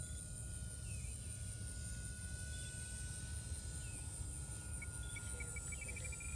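Faint, steady high whine of an electric RC Cessna 182 model's motor in flight at a distance, sinking slowly in pitch, over wind rumble on the microphone and insect hiss. Short bird chirps come and go, with a quick run of chirps near the end.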